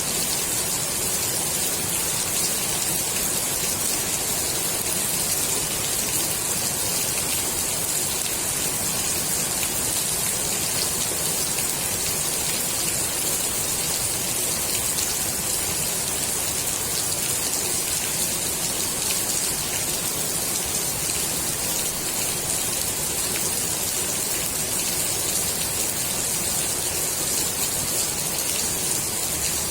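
Steady rain falling onto the water of a swimming pool, an even hiss of countless drops without a break.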